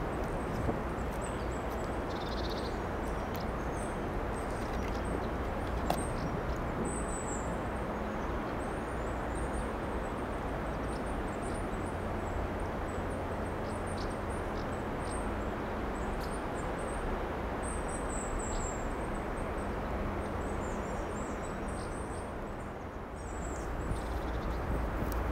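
Small birds chirping in many short, high twitters over a steady outdoor background noise, which dips briefly near the end.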